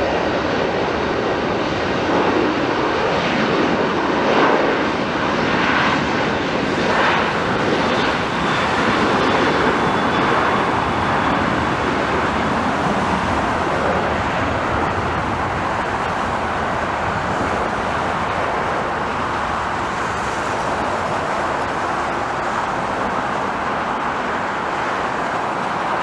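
Jet airliner engines at takeoff thrust: a steady, loud rushing noise with a faint pulsing in the first few seconds.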